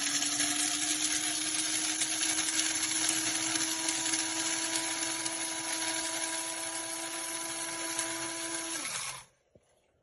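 Amazon Basics electric blade coffee grinder running: a steady motor whir over a dense grinding noise, stopping abruptly about nine seconds in.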